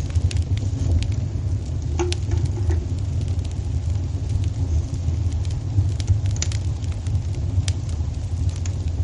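Wood fire crackling in a fireplace: a steady low rumble of the burning with scattered sharp pops and crackles, a few stronger ones about two seconds in and again around six to eight seconds.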